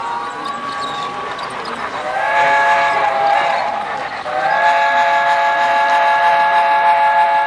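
Multi-note chime train horn sounding a chord: a blast about two seconds in that stops near four seconds, then a second, longer blast held to the end.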